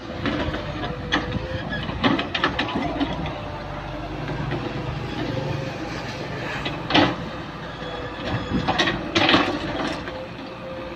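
Excavator engine running steadily while it digs, with a few short clanks and scrapes, the loudest about seven and nine seconds in.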